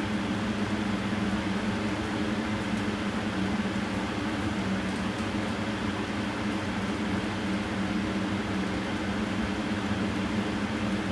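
Steady low mechanical hum of a running fan, even and unchanging throughout.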